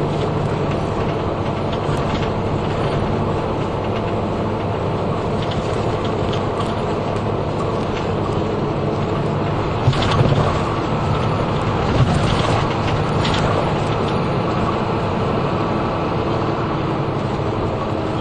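Route bus driving along, heard from inside the cabin: steady engine and road noise with small clicks and rattles, and a louder knock about ten seconds in and another about twelve seconds in.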